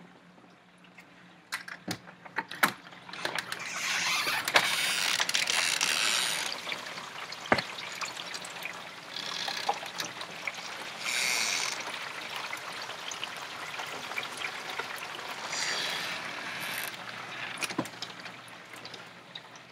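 Hard rain falling, a steady hiss that swells into louder surges and dies back several times, loudest a few seconds in. A few sharp clicks and knocks are heard near the start and once more around the middle.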